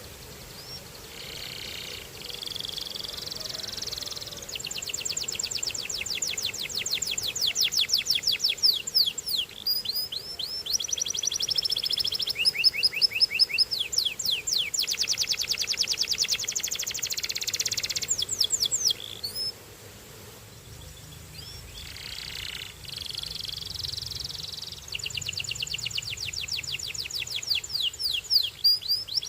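Domestic canary singing: phrases of rapid trills and fast repeated chirps, some on steady pitches and some as quick sweeping notes. The song breaks off for a couple of seconds about two-thirds of the way through, then starts again.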